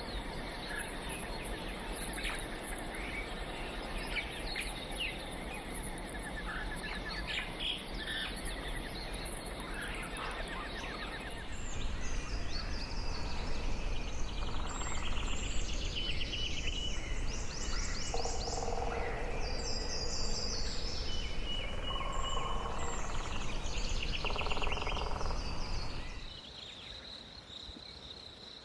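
Tropical birds calling in three successive recordings: busy chirping at first, then from about 11.5 s louder rapid trills and repeated whistled notes, and near the end a quieter stretch with a steady high buzz.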